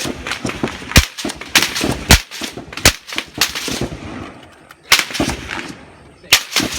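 Rifle fire at a range, with bullets cracking overhead: a string of sharp cracks at irregular intervals, each trailing off in a rolling echo, the loudest about one, two, three, five and six and a half seconds in.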